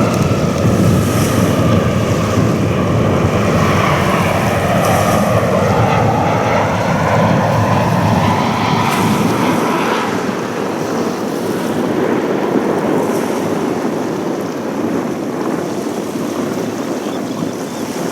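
Jet engines of an Airbus A320-214 (CFM56 turbofans) passing the microphone, their whine sliding down in pitch and the noise slowly fading, with wind buffeting the microphone.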